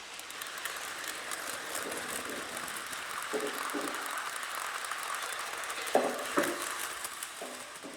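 Lionel O-scale model train rolling on track with the locomotive's sound off, while the Freight Sounds boxcar's speaker plays freight-car rolling sounds: steady rail noise with many small clicks and occasional clunks. Two louder knocks come about six seconds in.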